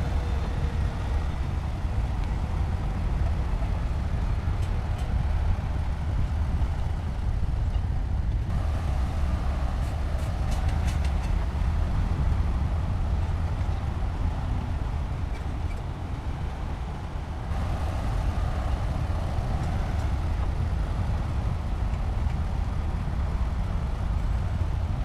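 Heavy construction machinery's diesel engine running with a steady low rumble, with a few light metallic clicks about ten seconds in.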